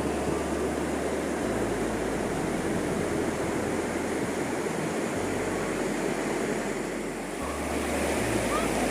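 Waterfall water falling and rushing steadily.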